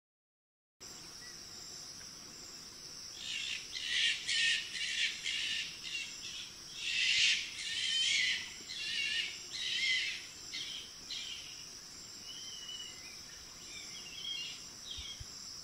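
Birds calling outdoors: irregular bursts of short, harsh chattering calls, densest in the middle, over a steady high-pitched buzz.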